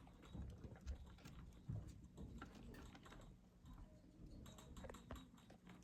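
Near silence with faint scattered clicks and a few soft knocks.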